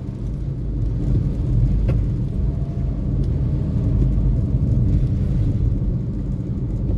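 Car on the road: a steady low rumble of engine and tyres, with a faint whine through the middle and a single click about two seconds in.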